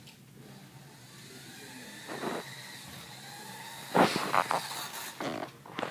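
Toy remote-control car's small electric motor whining as it drives, its pitch rising and falling. Louder clattering knocks come around two, four and five seconds in, the loudest about four seconds in.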